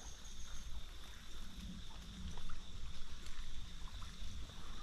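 Creekside ambience: a steady high insect drone over a low rumble, with a few faint knocks and rustles.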